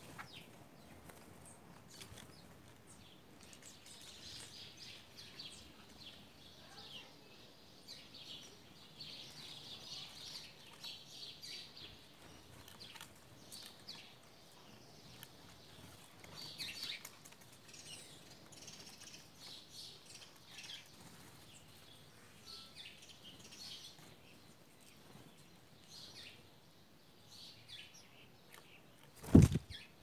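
Small birds chirping and calling softly in short high notes throughout, with a single low thump shortly before the end as a bird comes down right beside the camera.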